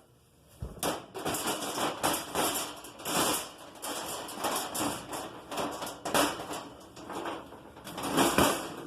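Sheet-metal gas-stove parts clattering and scraping in quick, irregular knocks as the bottom panel is fitted back into place.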